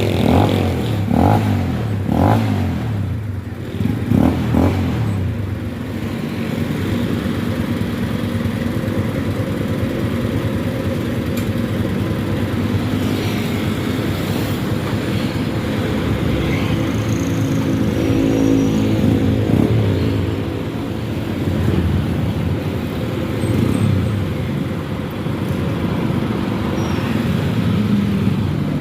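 Motorcycle engine running through a newly made full stainless-steel exhaust, blipped a few times in the first five seconds, then running steadily with a couple of mild throttle rises.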